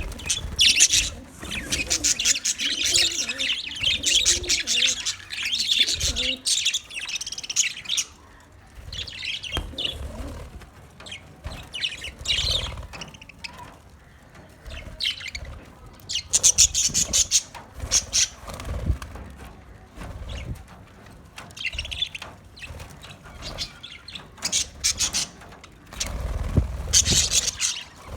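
Budgerigars chirping and chattering in bursts of quick high chirps, with short pauses between, over occasional low thumps.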